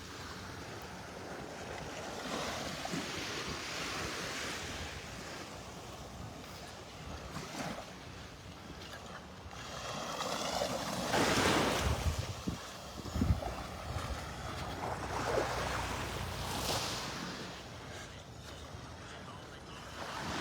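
Gulf surf washing onto the beach, rising and falling, with wind buffeting the microphone; it swells louder about ten seconds in.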